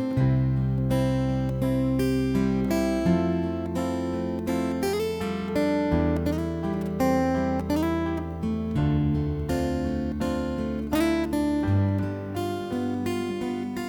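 Ukulele, acoustic guitar and electric guitar playing together: plucked and strummed chords over sustained low notes that change every couple of seconds, with a few notes sliding up in pitch.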